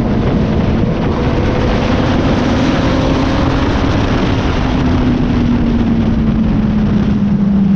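Sport motorcycle engine running at track speed under heavy wind rush. The engine note slowly falls in pitch as the bike rolls off.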